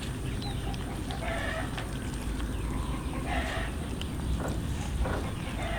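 Cats eating, giving short calls about every two seconds, with small clicks of chewing over a steady low rumble.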